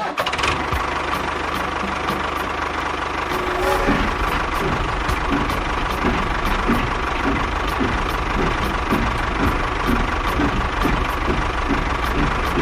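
A small motor running steadily, with a regular knocking pulse and a thin steady whine.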